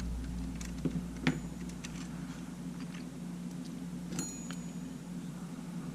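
A few light clicks and taps from handling the small parts of a partly disassembled camera, over a steady low hum.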